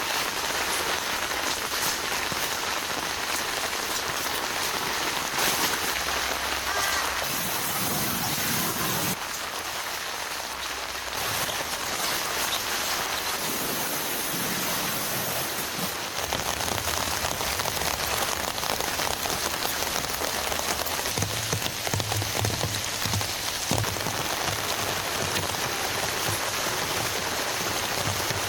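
Heavy rain falling, a dense, even patter of drops.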